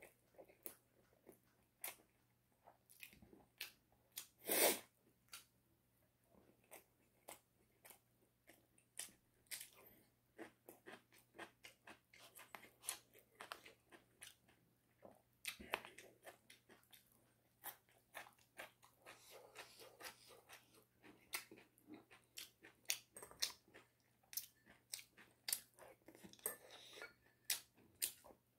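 Chicken being bitten and chewed, a steady irregular run of sharp crunches. One louder, longer noise comes about four and a half seconds in.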